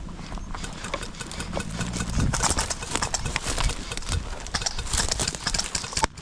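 Footsteps of people climbing on foot, an irregular run of crunching steps with gear and clothing rustling.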